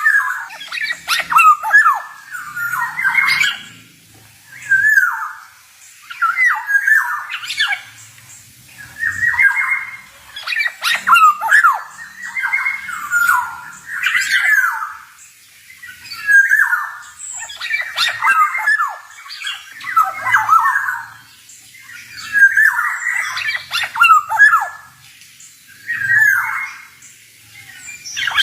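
Male black-naped oriole (kepodang) singing: repeated short phrases of sliding whistled notes, about one phrase every one to two seconds with brief pauses between.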